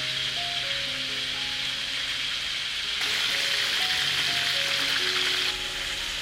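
Pork-topped eggplant slices deep-frying in a wok of hot oil: a steady, bubbling sizzle that grows a little louder about halfway through and eases near the end. Soft background music of slow single notes plays underneath.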